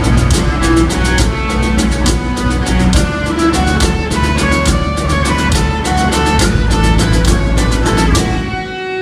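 Live rock band playing an instrumental break, with drums, guitars and a melody line over a steady beat. Near the end the band drops out, leaving a single held note.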